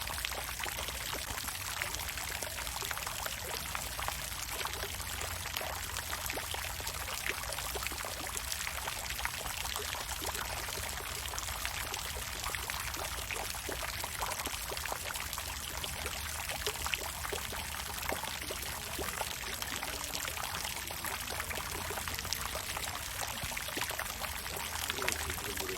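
Water fountain splashing steadily: a continuous wash of falling water, dotted with many small droplet ticks.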